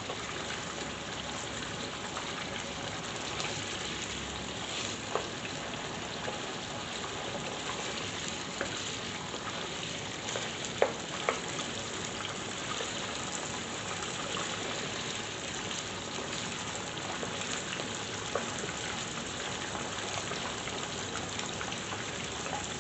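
Chicken pieces frying in hot oil in a karahi, a steady sizzle, with a few sharp clicks. The chicken is being fried until golden brown.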